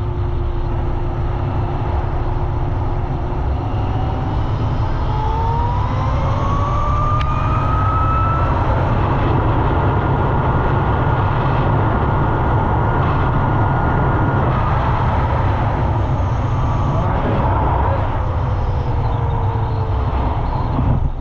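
QS138 70H mid-drive electric motor on a swapped dirt bike whining under full throttle. The whine rises steadily in pitch for the first several seconds, then holds high as the bike reaches its top speed, which is gear-limited by short trail gearing. It falls away near the end as the bike slows. Heavy wind noise runs under it throughout.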